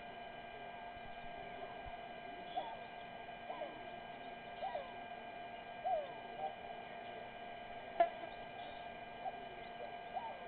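Steady electrical hum with short, pitch-bending chirping calls from a small animal repeating every second or so. A single sharp click comes about eight seconds in.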